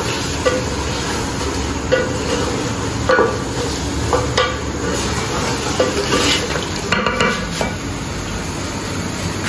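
A wooden spatula stirring chicken pieces and tomatoes as they fry in gravy in an aluminium pot: a steady sizzle with irregular scrapes and knocks of the spatula against the pot.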